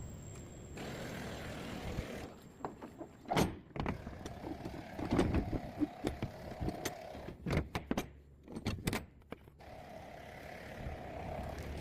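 A run of sharp clicks, knocks and clunks of something mechanical being handled, over a low background hum.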